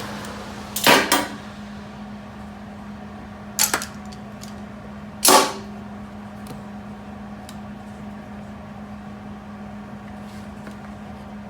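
Sharp metal clanks and clicks, a double one about a second in and two more a few seconds apart, as locking pliers (vise grips) are unclamped from the freshly welded exhaust flange and handled, over a steady low hum.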